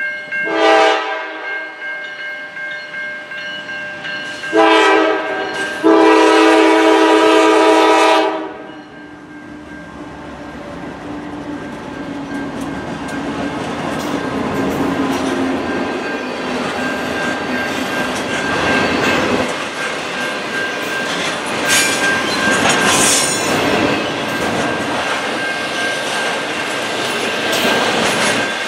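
Diesel locomotive air horn sounding a short blast, then two long blasts that run almost together, the last stopping sharply. Then a Norfolk Southern freight passes close by, first the locomotive and then intermodal cars carrying highway trailers, with a building rumble and the clickety-clack of wheels over rail joints.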